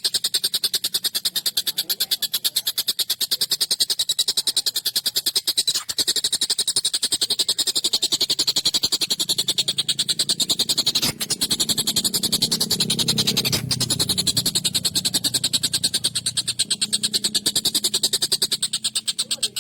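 Stork-billed kingfisher (tengkek buto) calling in a long, fast, unbroken series of harsh, sharp chattering notes.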